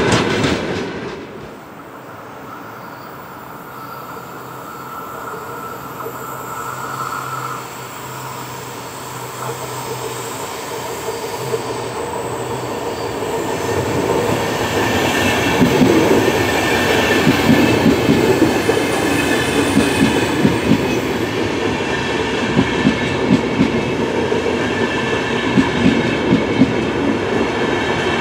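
The last of a passing freight train's rumble cuts off about a second in. A VR double-deck passenger train then approaches, growing steadily louder. From about the middle on, its coaches run past close by with a rhythmic clickety-clack of wheels over rail joints, over a steady rolling rumble.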